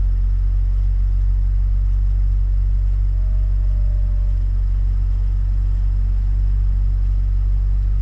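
Car engine idling: a steady low rumble that holds at an even level throughout.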